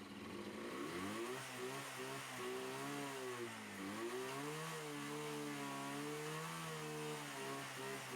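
Small motorcycle engine being revved. Its pitch rises and falls a couple of times, then holds at a steady higher speed for about three seconds before dropping back near the end.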